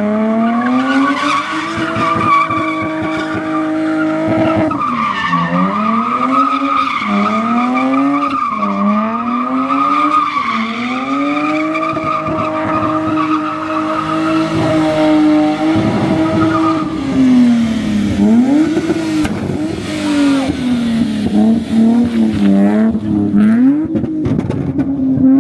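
A car engine revved hard over and over, its pitch swinging up and down and repeatedly holding at the same top revs, with a steady high tyre squeal over it: wheelspin, as in a burnout or donuts.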